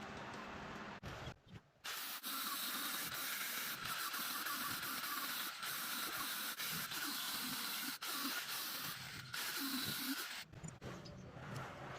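A steady spraying hiss that starts about two seconds in, runs for roughly eight seconds and stops abruptly.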